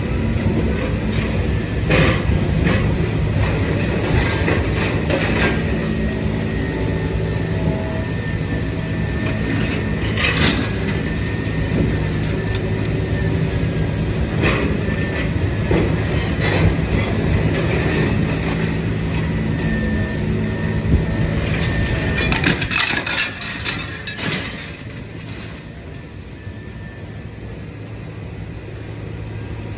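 Idromec T 650 CLS scrap metal shear baler working: a steady hydraulic hum under the creaking, crunching and clanking of scrap metal being compressed. There are sharp metal bangs about two and ten seconds in and a burst of clatter a little over twenty seconds in, after which it runs quieter.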